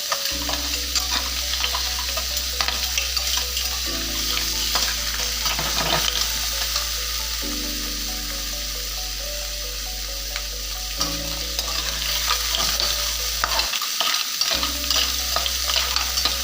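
Leeks and cherry tomatoes sizzling in a frying pan as they are stirred, a steady crackle with small scraping clicks. Soft background music with a low chord that changes every few seconds plays underneath.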